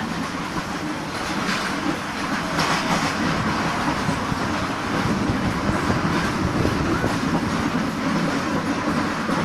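Brisbane Phoenix FM tram 548 rolling along the track with a steady running noise, its wheels clacking over rail joints a few times.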